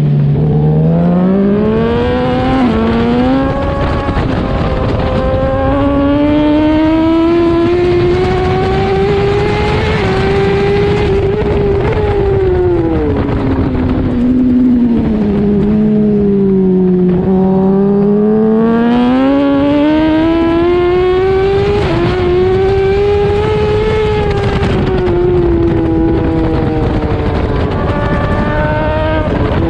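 Suzuki inline-four racing motorcycle engine heard on board, revving up through the gears with small steps at each shift, then dropping away under braking and downshifts. The pitch climbs and falls twice before climbing again near the end.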